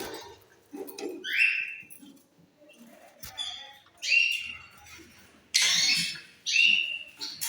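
Lovebirds giving short, high-pitched squawks: about four separate calls, the loudest a little before six seconds in.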